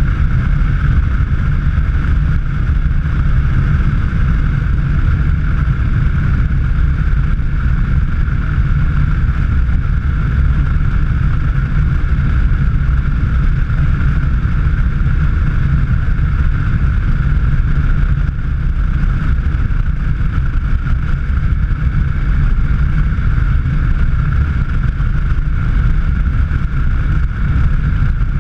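Steady running noise of a vehicle driving on the road: low engine and tyre rumble with a steady higher hum and wind, unchanging throughout.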